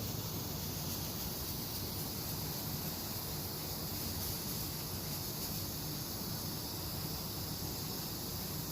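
A steady, even hiss with no breaks or changes in level.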